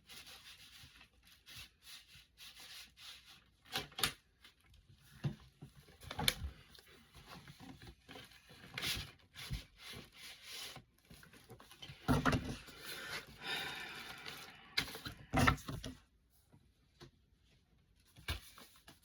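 Handling noises from unboxing mail-order records and merch: scattered rubbing and rustling of packaging and sleeves with occasional knocks, a few of them louder, then quieter near the end.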